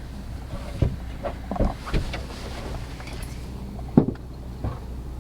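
Inside a car's cabin: a steady low hum of the car running, with irregular knocks and thumps on the body as snow is cleared off the car from outside. The sharpest knock comes about four seconds in.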